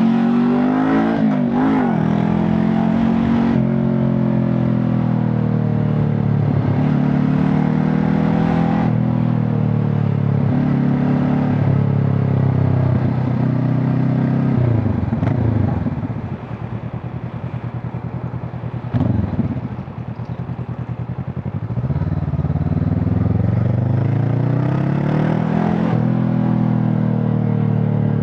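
Honda CB500 Hornet's parallel-twin engine and exhaust under way. It accelerates with upshifts about 3.5 and 9 seconds in, then drops to low revs for several seconds with a brief rev in the middle, and pulls up through the revs again near the end.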